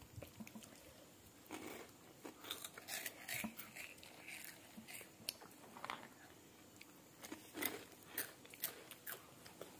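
Crisp cheese-flavoured snack sticks crunching as a child bites and chews them: many short, quiet crunches at an uneven pace.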